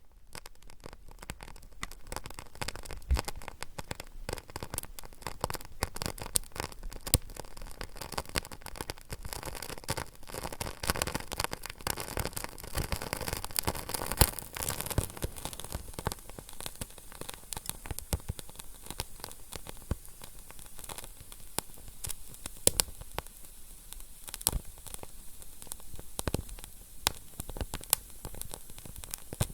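Fire crackling: a dense, irregular run of pops and snaps over a steady hiss, with a few louder pops.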